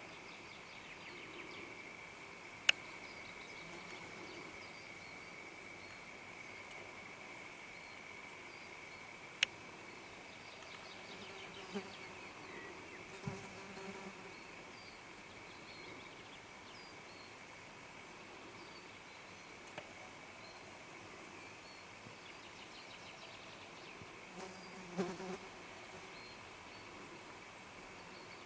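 Steady chorus of insects with a constant high buzz. Two sharp clicks stand out, about three and nine seconds in.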